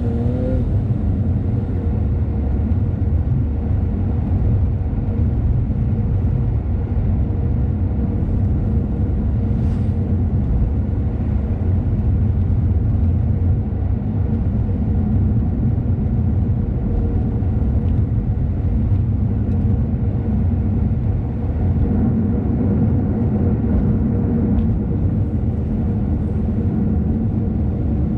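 Car driving along a road: steady engine and road rumble, with the engine pitch rising briefly at the very start.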